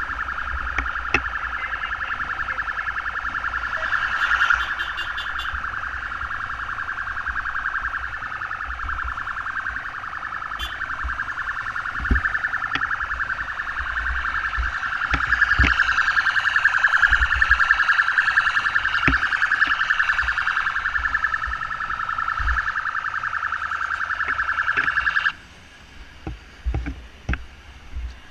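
Motorcycle ambulance's electronic siren sounding a rapid warble, then cutting off suddenly near the end, with a low rumble underneath.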